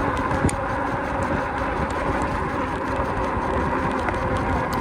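Steady wind and rolling noise from an e-bike ride, dense low rumble with a faint steady whine underneath and a couple of small clicks.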